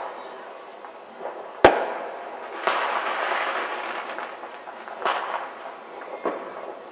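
Scattered bangs of fireworks: one sharp crack about a second and a half in, the loudest, then another bang a second later that trails off into a couple of seconds of rumbling echo, and two more, fainter bangs after that.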